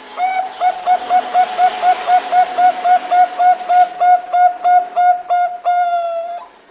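Zebra dove (Bangkok-bred perkutut) calling: a quick run of about eighteen short, clipped coos at roughly three a second, ending in one longer drawn-out coo that slides down. This is the kind of call played as a lure to get young or lazy perkutut to start calling.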